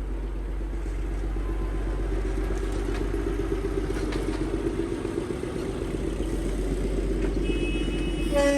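Vehicle engine running amid road traffic noise, steady throughout, with a vehicle horn starting to sound near the end.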